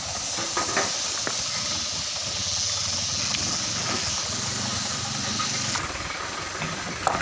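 A steady hiss that cuts off suddenly near the sixth second, with scattered light clicks and knocks.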